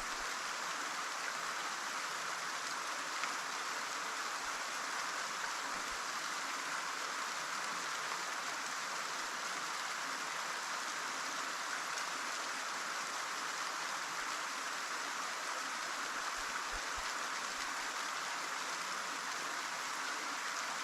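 Small waterfall: water falling and splashing in a steady, even rush of noise.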